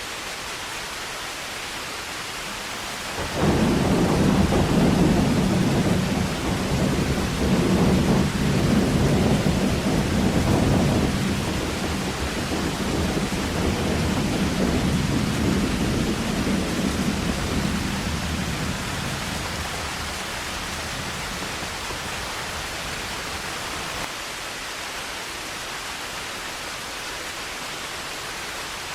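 Heavy rain falling with a steady hiss. About three seconds in, thunder breaks in suddenly as a loud, deep rumble that rolls on for several seconds, then slowly dies away over the next ten or so seconds, leaving only the rain.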